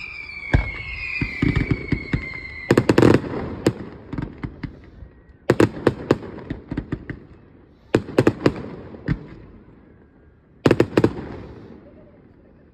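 Fireworks going off: a whistling firework sounds for the first couple of seconds, dropping slightly in pitch. Then come four clusters of sharp bangs and crackles, roughly every two and a half seconds, each dying away before the next.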